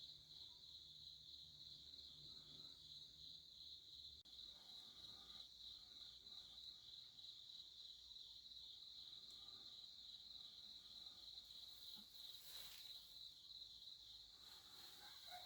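Crickets trilling: a faint, steady, high chirring with a fine rapid pulse. A brief soft rustle comes about twelve seconds in.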